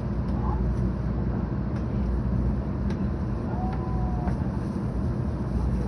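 Running noise inside the passenger cabin of a 700 series Shinkansen car: a steady low rumble with a few faint clicks.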